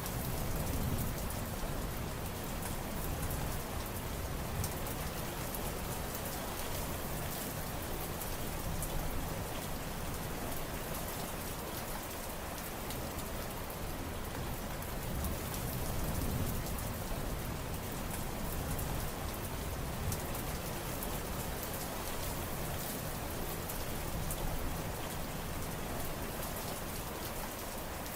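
Steady rain falling, with many individual drops heard hitting a surface. Low rumbles swell about a second in and again around the middle.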